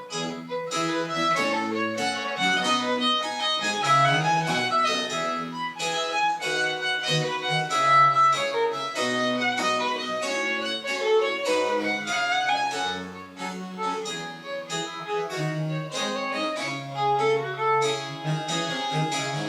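Chamber ensemble playing French Baroque music, with bowed strings in a busy run of quick notes over a bass line of held low notes.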